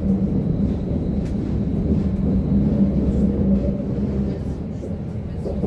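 Berlin U-Bahn type JK train running, heard from inside the car: a steady rumble of wheels on rail with a constant low hum from the drive.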